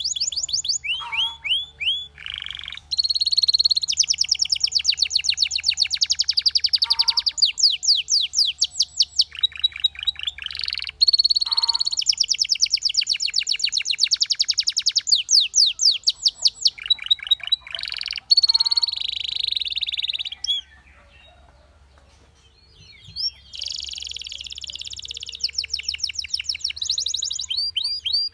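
Domestic canary singing: long rolling trills of fast repeated notes, in phrases a few seconds long with short breaks between them. The song stops for about two seconds around two-thirds of the way through, then resumes.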